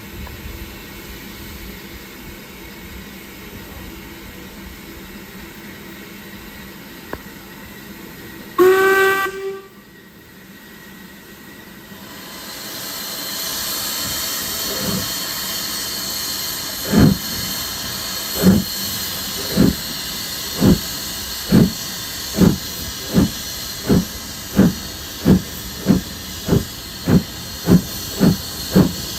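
Steam locomotive starting away: one short whistle blast about nine seconds in, then a loud hiss of steam builds, and from about fifteen seconds the exhaust beats begin, quickening from about one every second and a half to more than one a second as the engine gathers speed.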